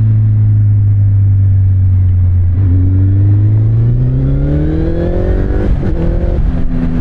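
First-generation Kawasaki Z1000's inline-four engine through an Akrapovic exhaust, running at a steady cruise. About three seconds in, its note rises smoothly as the bike accelerates. Near six seconds it breaks off briefly for an upshift and settles on a lower, steady note.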